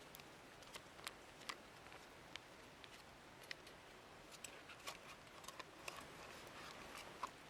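Faint, irregular sharp clicks and crackles, scattered unevenly, over a soft steady hiss.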